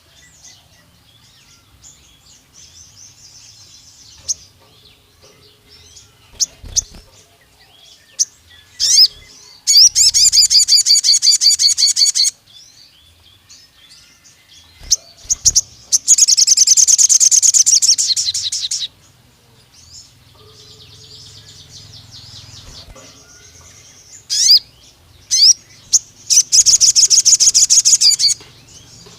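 Sogon bird song: three long, loud runs of rapid, high repeated notes, each lasting two to three seconds, with short sharp chirps and softer twittering between them.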